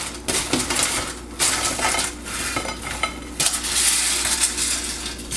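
French fries being dumped onto plates: an uneven run of clattering and rustling, with clinks of the dish.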